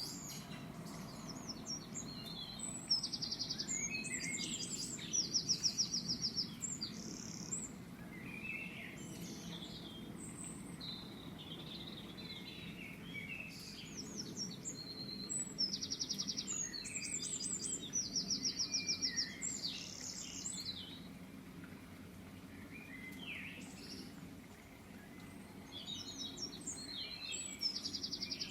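Birds singing: bursts of high, fast trills and chirps that come and go every few seconds, over a steady low background rumble.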